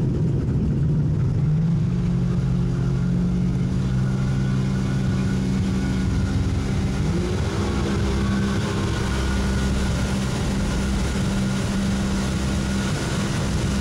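Two-stroke outboard boat engine running steadily during its break-in run, held below 5,000 RPM, with water and wind noise underneath. Its pitch steps up slightly about seven seconds in.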